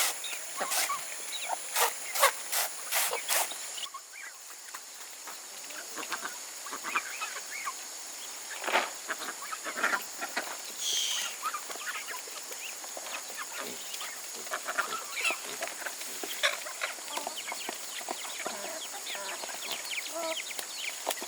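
Chickens clucking and calling, with several sharp knocks in the first few seconds.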